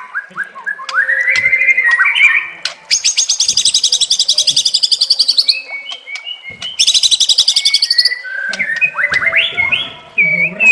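Songbird singing a varied song of whistled phrases. Two fast trills of high repeated notes come in, the first about three seconds in and lasting some two and a half seconds, the second a shorter one near seven seconds.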